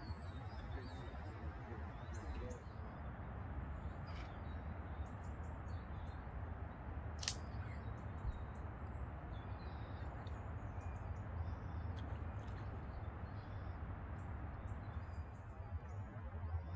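Small birds chirping now and then over a steady low rumble, with one sharp click about seven seconds in.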